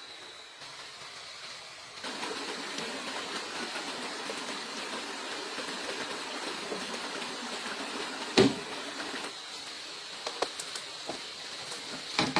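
A steady rushing noise like running water, louder from about two seconds in, with one sharp knock about eight seconds in and a few light clicks near the end.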